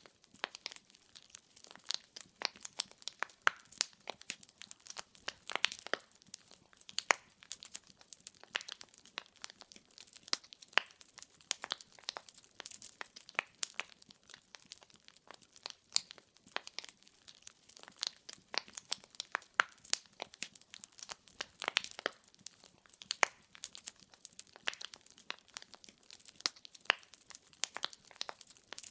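Wood fire in a fireplace crackling, with many small irregular pops and snaps of burning firewood over a faint hiss.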